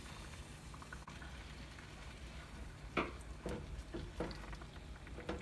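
Chicken in yogurt simmering quietly in a pot while a spoon stirs it, with several short scrapes of the spoon against the pot in the second half.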